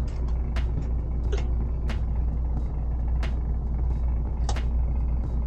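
Steady low drone of a cruise ship's interior, from machinery and ventilation, with short sharp clicks every second or so.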